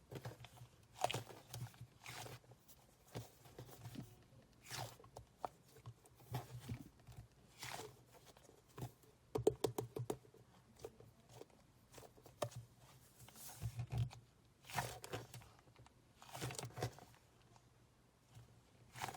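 A soft, sticky squishy toy (mallang-i) squeezed and kneaded by hand, giving irregular clusters of crackling and clicking, each about a second long, every second or two.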